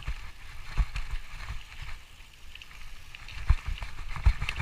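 A hiker's footsteps and gear knocking on a body-worn camera while climbing a steep trail: irregular dull thumps, the loudest about three and a half and four and a quarter seconds in, over a faint steady hiss.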